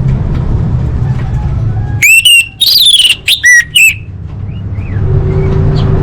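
Female orange-headed thrush calling: a quick run of loud, whistled notes that slide up and down, about two seconds in, over a steady low hum.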